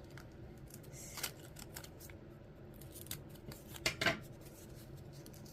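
Paper and double-sided tape being handled: scattered light rustles and clicks, with two louder clicks about four seconds in.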